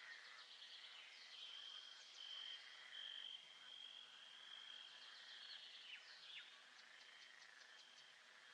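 Faint nature-sounds ambience: a high, steady trill that comes and goes, with a couple of quick falling calls about six seconds in and a run of fast ticks near the end.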